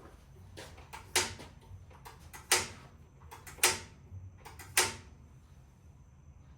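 A 1969 Triumph T100 parallel-twin motorcycle being kick-started, four kicks about a second apart. Each kick is a sharp metallic clank with a short ring, and the engine does not fire.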